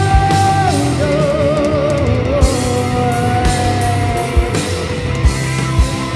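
Rock band playing live, psychedelic rock: drum kit with regular kick-drum hits and cymbal wash, a steady bass line, and a held, wavering lead melody line that slides down to a lower note about a second in.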